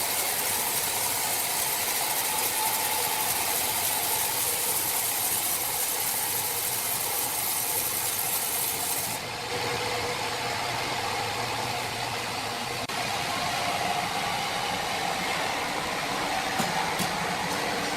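Sawmill machinery running steadily with a loud hiss. The high part of the hiss drops away suddenly about halfway through, leaving the machine's steady running noise.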